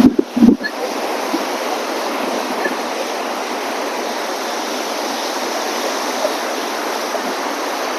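Stormy sea surf and strong wind making a steady, dense rush. Two loud low thumps come near the start.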